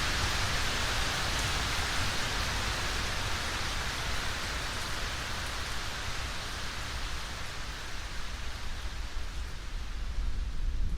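Steady rain falling, an even hiss that eases off over the last few seconds, with a low rumble underneath.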